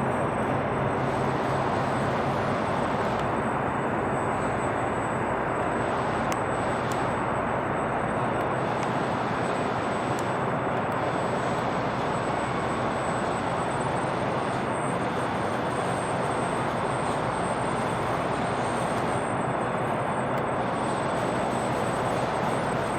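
Steady, even roar of distant traffic, with a faint thin high whine throughout.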